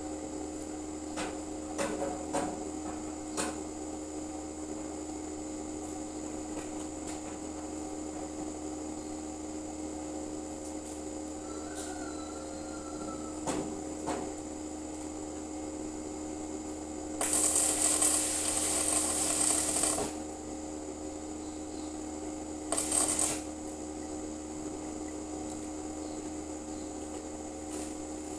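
Steady electrical hum with a few knocks, then two bursts of crackling hiss from electric arc welding on the steel grate: one lasting about three seconds past the middle, and a shorter one soon after.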